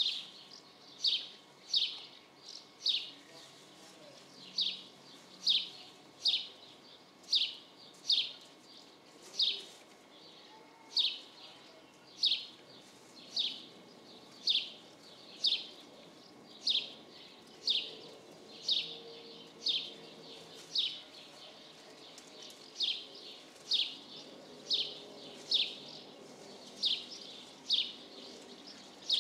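A bird repeating a short, downward-sweeping chirp about once a second, over a faint low rumble of a jet airliner passing high overhead.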